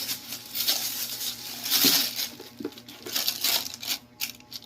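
Packing material around a boxed power amplifier being handled and pulled away: irregular bursts of rustling and crinkling.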